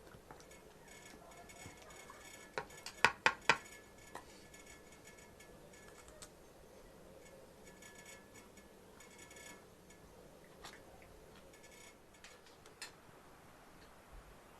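A quick cluster of sharp clinks, like utensils striking dishes, about three seconds in, three of them loud and ringing briefly. Faint scattered ticks and clicks run through the rest.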